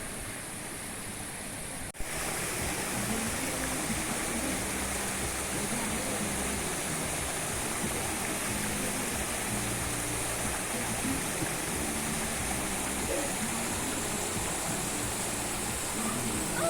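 Rushing water, a steady, even roar that begins abruptly about two seconds in after a quieter hiss.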